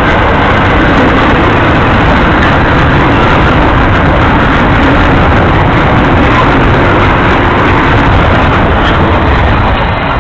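Canadian Pacific intermodal freight train rolling past close by: a loud, steady rumble of wheels on rail with no clear engine note.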